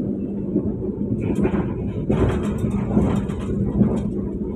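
Passenger train running at speed, heard from inside the coach: a steady low rumble with a constant hum. A louder rush of rail and wheel noise with crackly ticks swells about a second in and eases off near the end.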